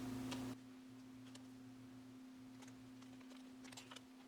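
Quiet room tone with a steady low electrical hum. A few faint clicks come from photocards and plastic sleeves being handled. A louder rustle stops about half a second in.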